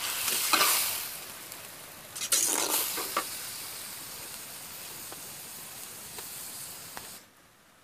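Goat blood and shallots frying in a metal wok, sizzling steadily. There are two louder bursts of scraping and sizzling as a slotted spoon stirs them, one right at the start and one about two seconds in. The sizzling cuts off suddenly near the end.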